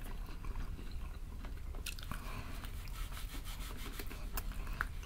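Close-up biting and chewing of crispy fried chicken, with a few short sharp crunches.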